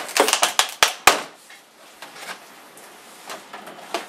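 Small plastic parts and a vacuum-formed plastic tray being handled: a quick run of sharp clicks and knocks in the first second, then a few softer taps.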